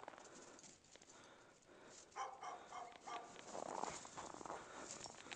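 A few short, faint dog barks in quick succession about two seconds in, followed by a brief rustling noise.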